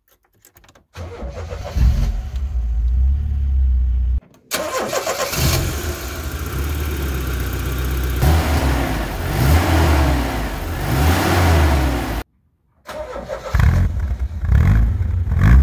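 Car engine, likely the restored Opel Manta's, starting and then running with revs that rise and fall, in several edited stretches separated by brief silent gaps.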